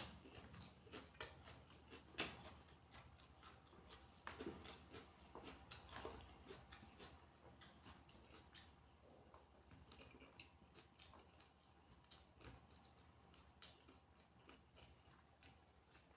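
Faint chewing and eating: soft, irregular mouth clicks and small crunches, denser in the first few seconds and quieter afterwards.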